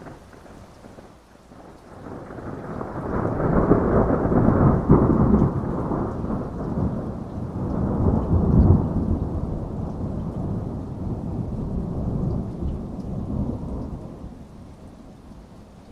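A long roll of thunder over steady heavy rain. The rumble builds about two seconds in, peaks around the middle and slowly dies away near the end.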